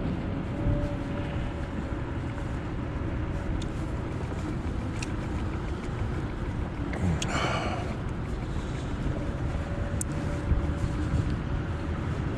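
Wind and road noise rushing past while riding a Kaabo Wolf GT Pro electric scooter, with a faint steady whine that comes and goes. A short high-pitched sound comes a little past halfway.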